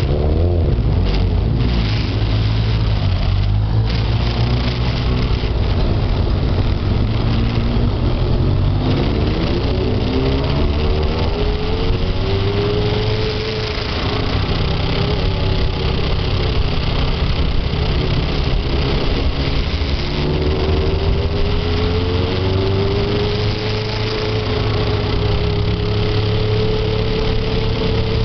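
Motorcycle engine running on the move over a steady rush of noise, its note rising and falling with throttle and gears, climbing slowly twice.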